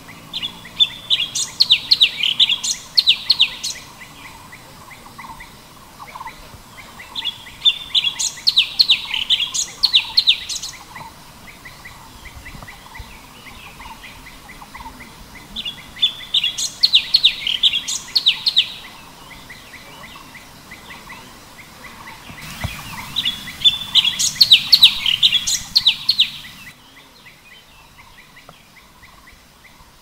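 Cucak cungkok songbird singing: four bouts of quick, high, warbling notes, each about three seconds long and roughly six seconds apart, with softer calling between them.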